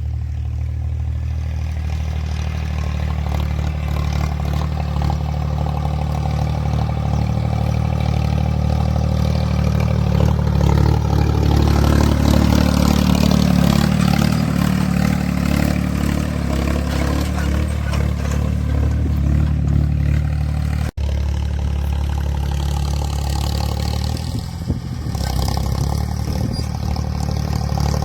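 Ford 3600 tractor's three-cylinder diesel engine running, pulling a 16-disc harrow. The engine note swells louder and wavers in pitch around the middle. There is a split-second break about three-quarters of the way through, after which it runs on steadily.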